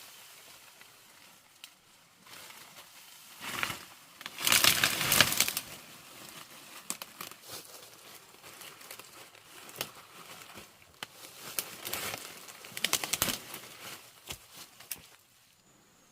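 Crinkling and rustling from something being handled, in two main bursts with scattered crackles and clicks between them.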